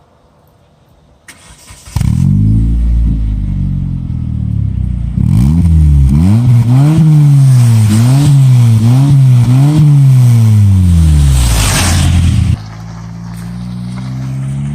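2005 Kia Spectra5's 2.0-litre four-cylinder engine running through a 12-inch Cherry Bomb glass pack in place of the factory muffler. The engine comes in loudly about two seconds in, is revved about five times in quick succession, and then drops back. Near the end the sound turns suddenly quieter, with the engine's pitch slowly rising.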